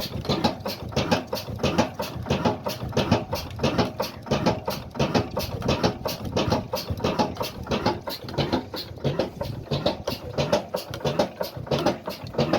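Old stationary diesel engine running steadily, its firing strokes coming as quick, even beats.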